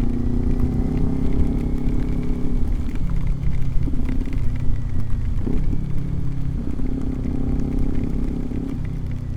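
Motorcycle engine running at cruising speed, its note stepping to a new pitch a few times, with a brief dip and rise about halfway through, over a heavy low rumble of wind on the microphone.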